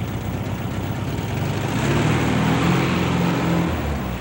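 A classic convertible car drives past with its engine running. The engine grows louder about halfway through and eases off near the end.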